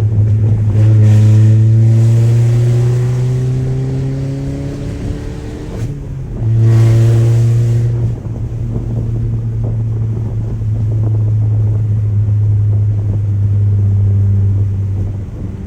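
Straight-piped Audi A3 exhaust, with the muffler and resonator deleted, running under way with a loud, low drone. It swells under throttle about a second in and again near seven seconds in, then eases back to a steady drone.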